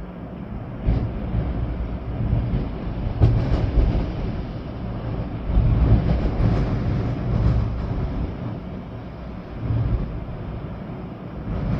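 Storm wind gusting through swaying trees, with rain, buffeting the microphone in a heavy low rush. The gusts swell and fall several times.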